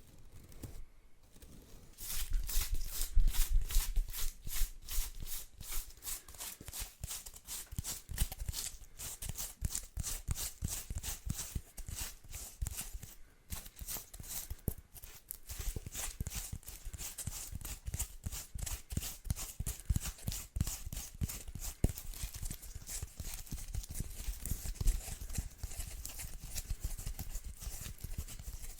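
Bristles of a household bundle broom rustling and crackling close to the microphone in quick repeated strokes, several a second, with low handling thumps; it starts about two seconds in after a quieter moment.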